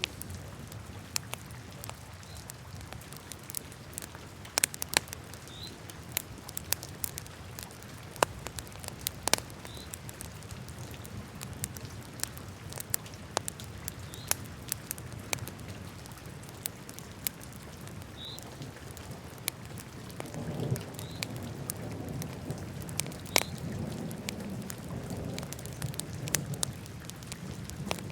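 Wood fire crackling in a fireplace: irregular sharp pops and snaps over a steady low rush, which swells about two-thirds of the way through.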